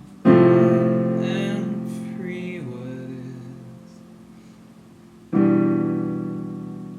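Piano music: a full chord struck about a quarter second in and left to ring and fade, then a second chord struck about five seconds in and left to ring.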